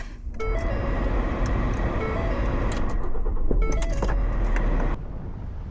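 Road and engine noise of an SUV driving off, heard from inside the cabin as a steady low rumble. The rumble drops suddenly to a quieter level about five seconds in.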